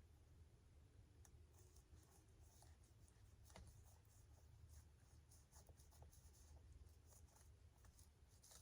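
Near silence with faint scratching and small clicks: a screwdriver scraping foam and glue out of the seam of a foam model airplane wing, over a low steady hum.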